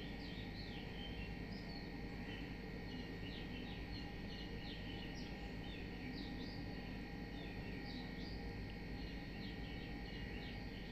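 Faint chirping of small birds, many short high chirps scattered throughout, over a low steady background hum.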